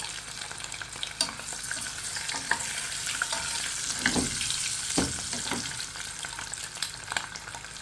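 Egg frying in hot oil in a pan, a steady sizzle with scattered small clicks and a couple of brief scrapes about four and five seconds in.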